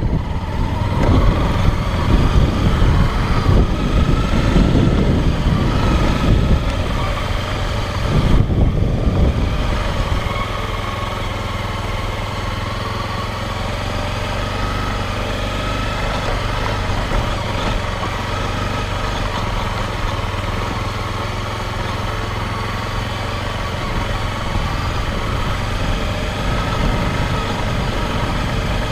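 Motorcycle engine running as the bike rides along, louder and rougher for about the first ten seconds, then settling to a steadier, even drone.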